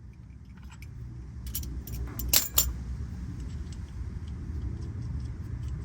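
Hand tools clinking against metal as a driveshaft bolt is worked loose under a car, with a few sharp metallic clinks, the loudest two about two and a half seconds in, over a steady low rumble.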